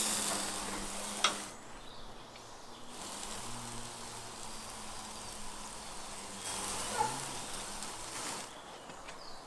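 Shashlik meat on skewers sizzling over charcoal, swelling in two spells, at the start and again about two-thirds of the way in, with a sharp crackle in each.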